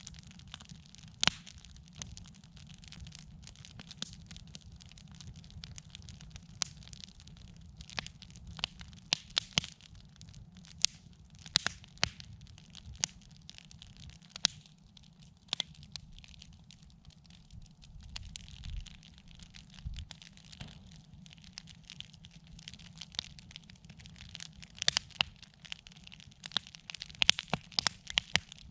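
Campfire burning, the wood crackling with irregular sharp pops that come in quicker clusters at times, over a steady low rumble.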